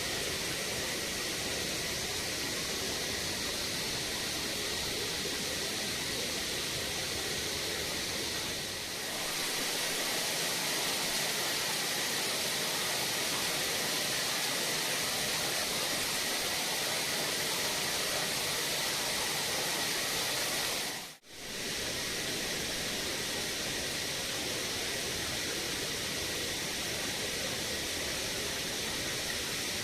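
A waterfall: the steady rush of falling water, mostly a high hiss, with a brief drop-out about two-thirds of the way through.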